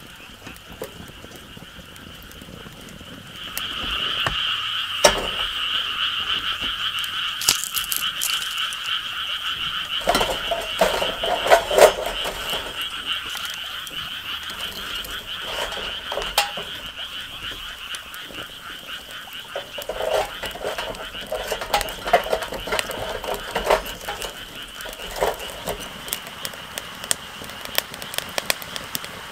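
A chorus of frogs calling steadily, coming in a few seconds in and continuing, with scattered sharp clicks and crackles over it.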